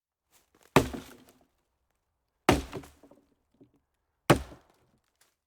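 Three sharp knocks, evenly spaced a little under two seconds apart, each dying away within about half a second.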